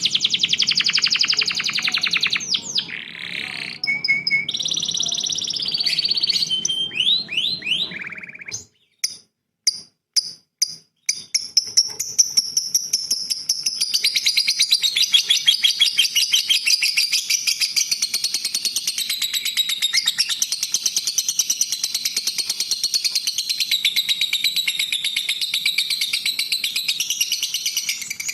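Recorded songbirds singing. For about eight seconds one bird gives fast trills and whistles over a low hum. After a short break with a few sharp chips, a second bird starts a continuous rapid, high chattering song about twelve seconds in.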